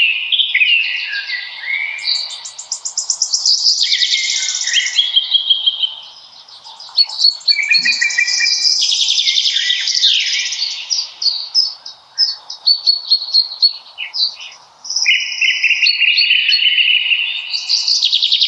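Several songbirds singing at once in a spring forest chorus: overlapping high trills and fast runs of repeated notes, easing off briefly a few times before picking up again.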